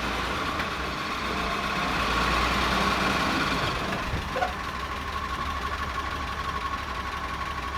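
Willys Jeep engine running as the Jeep pulls away in first gear, swelling louder about two to three seconds in as it accelerates, then settling to a steady run.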